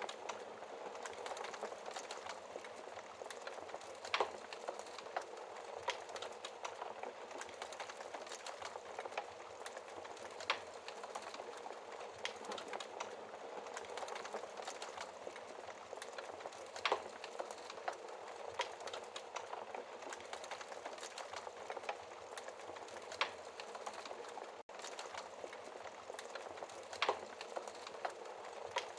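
Wood fire burning in a fireplace: a steady crackling hiss with many small snaps and a louder pop about every six seconds. The sound cuts out for an instant late on.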